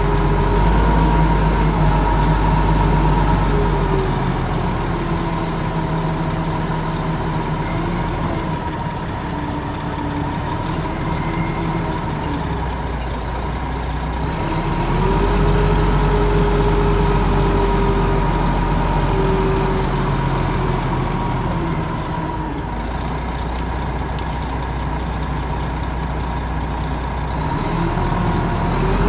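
Large machine engine running steadily, its pitch slowly rising and falling now and then.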